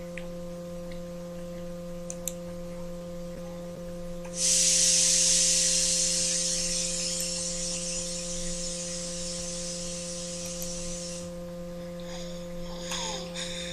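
Steady electrical hum with a few fixed tones, and a loud hiss that starts suddenly about four seconds in and cuts off about seven seconds later.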